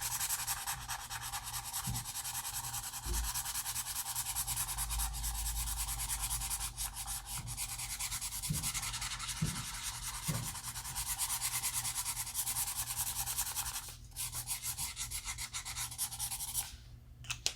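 Ohuhu alcohol marker tip rubbing across paper in many quick colouring strokes, which stop shortly before the end.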